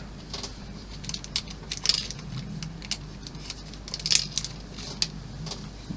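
Light, scattered clicks and rattles of small parts being handled: tiny screws and plastic model-kit pieces picked up and set down, a couple of sharper clicks about two and four seconds in.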